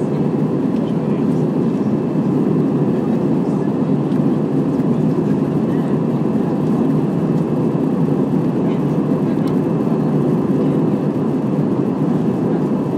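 Airbus A320 cabin noise in flight: the steady rush of the engines and airflow, even and unbroken.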